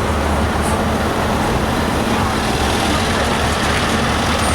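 Heavy trucks' diesel engines running with a steady low rumble.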